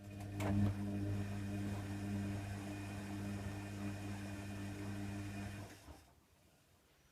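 Hoover Nextra HNWL7146 washer dryer giving off a steady low electrical hum for about six seconds, starting just after a click and then cutting off suddenly.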